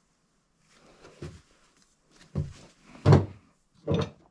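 A few separate metal clunks and knocks, about four, the loudest a little past the middle. They come from the 1995 Kawasaki ZX-6R engine being shifted and bumping against the motorcycle frame as it is worked into place.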